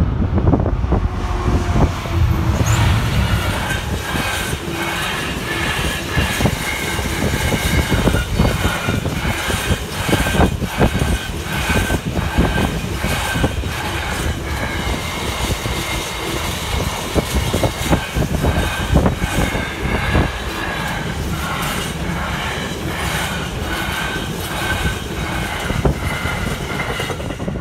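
Class 66 diesel locomotive and a long container freight train passing close by. The wheels clatter with many irregular knocks and squeal on and off. A heavy low rumble is strongest in the first few seconds, as the locomotive goes by.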